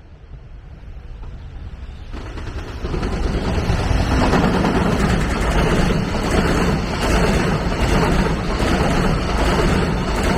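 A train approaching and passing close by on the track: a low rumble that swells over the first few seconds, then runs loud with repeated wheel clacks over the rail joints.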